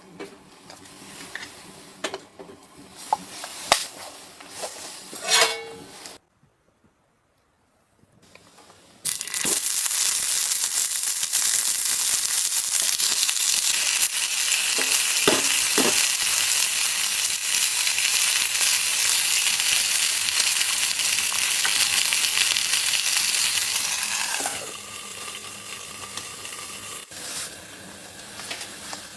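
Food frying in a pan with a steady sizzle that starts loud about nine seconds in and eases off near the end, after a few knocks and clicks of handling at the start.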